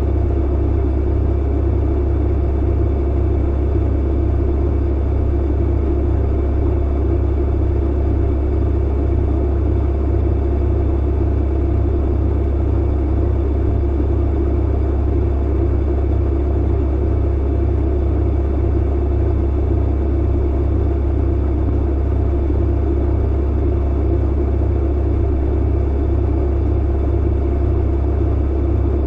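Clothes dryer running: a steady low motor hum under the drum's rumble, with no change throughout.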